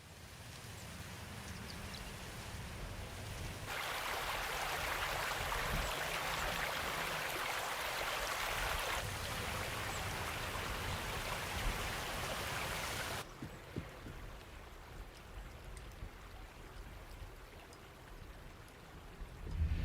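A steady rushing hiss that fades in, grows louder and brighter about four seconds in, and drops off suddenly about thirteen seconds in.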